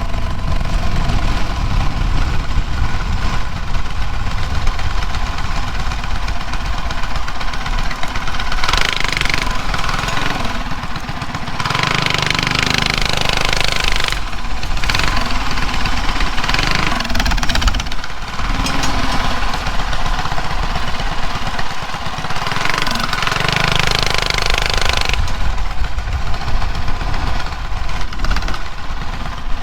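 Drag-racing mini bike engine running hard while being ridden, the revs climbing and dropping back several times.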